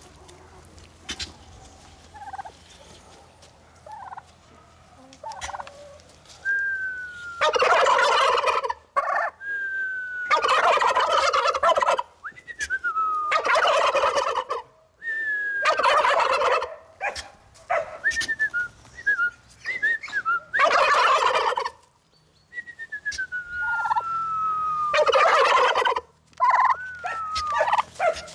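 Male turkey gobbling repeatedly, about six rattling gobbles a few seconds apart, each about a second long. Thin falling whistle-like notes come just before most of the gobbles.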